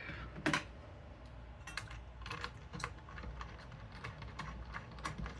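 Small irregular plastic and metal clicks of a CPU air-cooler heatsink being seated onto its mounting bracket, with one sharper click about half a second in.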